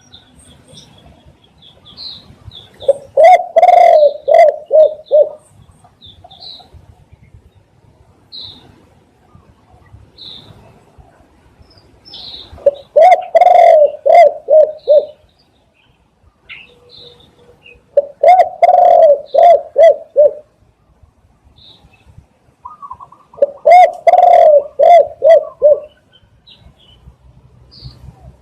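A spotted dove cooing: four loud phrases of about six rapid low coos each, spaced several seconds apart. Small birds give short high chirps in the gaps.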